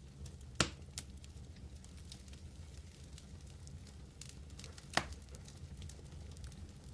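Wood fire burning in a fireplace: a steady low rumble of the flames with scattered small crackles, and two sharp loud pops, one just after the start and one about five seconds in.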